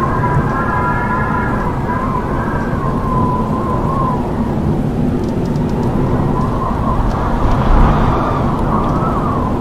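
Howling wind: a steady rush with a wavering whistle that rises and falls in pitch, swelling in a stronger gust about eight seconds in.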